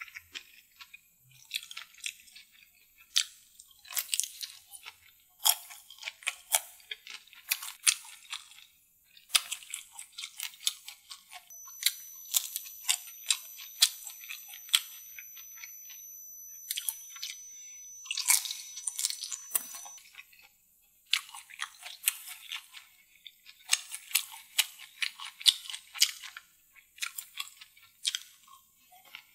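Close-miked chewing and wet mouth sounds of someone eating saucy deviled seafood and chicken. The sound comes as irregular clusters of crisp, wet clicks and smacks with short pauses between.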